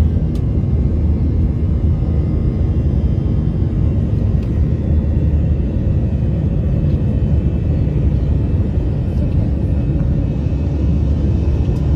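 Airliner cabin noise: the steady low rumble of the jet's engines and airflow, heard from inside the passenger cabin.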